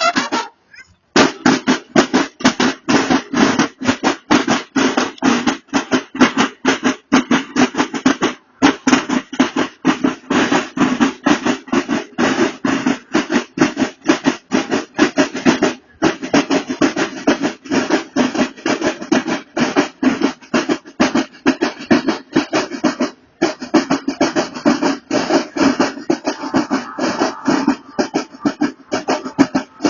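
Banda de guerra snare drums playing a fast, continuous rolling drum pattern, broken by short pauses about every seven to eight seconds.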